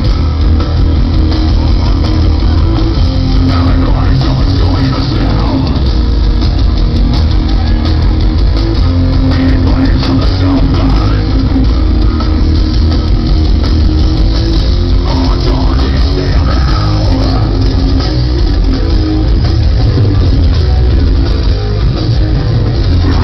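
Heavy metal band playing live and loud: distorted electric guitars, bass and drums.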